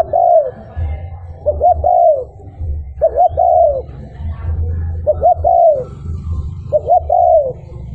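Spotted dove cooing: the same phrase repeats about every two seconds, two short coos followed by a longer drawn-out coo that falls away at its end. A low rumble runs underneath.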